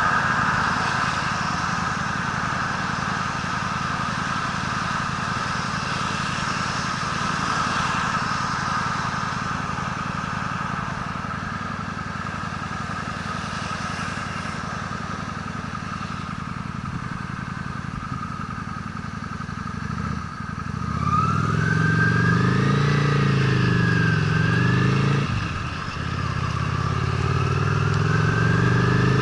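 Honda Steed V-twin motorcycle engine under way, running steadily with road and wind noise. About two-thirds in the throttle is briefly closed, then the engine pulls up louder with its pitch rising and falling. There is a short break, as at a gear change, and it rises again near the end.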